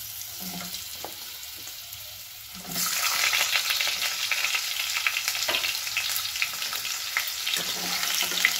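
Potato wedges frying in hot mustard oil in a kadai, sizzling. The sizzle jumps much louder about two and a half seconds in as a larger batch of potatoes goes into the oil, and a spatula stirs and scrapes through them near the end.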